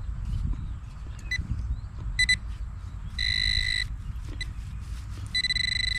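Metal detecting pinpointer beeping in a high electronic tone: a short beep, a quick double beep, a held tone of about half a second and another short beep. Near the end it turns into a rapid continuous pulsing as it closes in on a shallow metal target.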